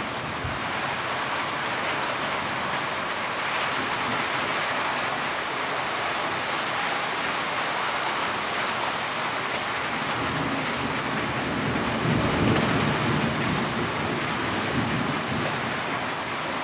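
Heavy rain falling steadily. A low rumble swells underneath about twelve seconds in, then fades.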